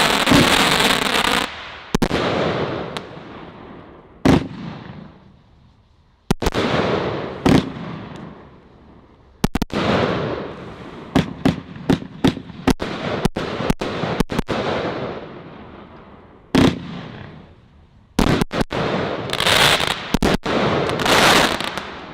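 A 76-shot firework cake firing: a run of sharp bangs of bursting shells, each trailed by a fading crackle. The bangs come in quick volleys around the middle and near the end.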